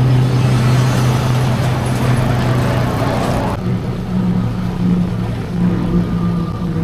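Motorbike engine running steadily at a slow cruising speed, with a rush of wind and road noise that cuts off suddenly about three and a half seconds in.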